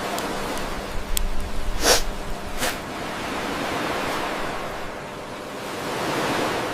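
A steady rushing ambient noise that swells and fades, with a few sharp clicks about a second in and two short, louder bursts about two and two and a half seconds in.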